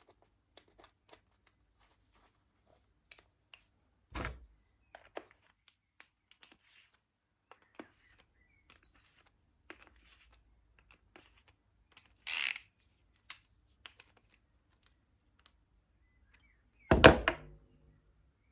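Tools and small metal parts of a lawn mower carburetor being handled: scattered light clicks and taps, a thunk about four seconds in, a short hiss about twelve seconds in, and a louder knock with brief ringing near the end.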